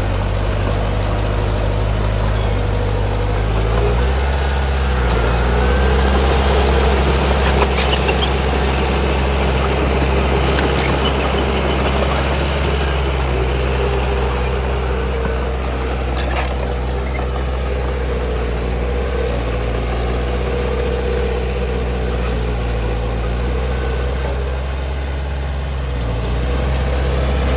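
Bulldozer's heavy diesel engine running steadily, a Komatsu D31P. Its note steps up about four seconds in and drops back near the end, with a couple of short clanks in between.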